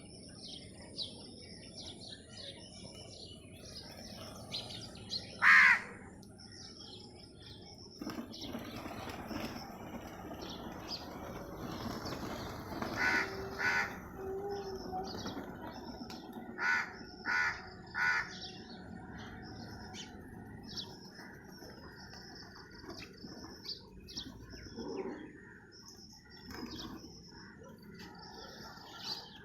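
Sparrows chirping in quick short notes throughout, with a crow cawing loudly once about five seconds in and again in short runs of two or three caws around the middle.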